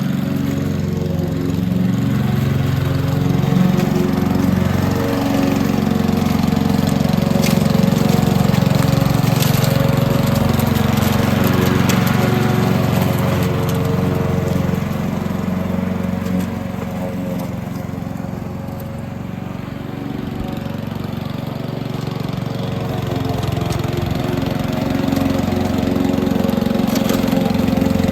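Petrol lawn mower engine running continuously while mowing, dipping in loudness for a few seconds about two-thirds of the way through.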